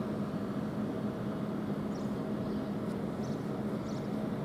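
Stationary Southeastern Class 395 electric train humming steadily at the platform while it waits to depart, with a few faint high chirps.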